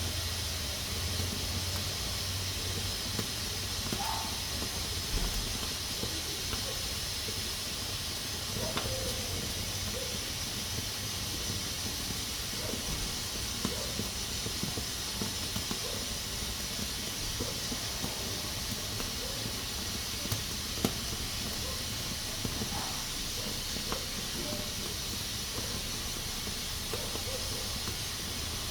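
Pressure cooker releasing steam in a steady, even hiss, with a few faint ticks now and then.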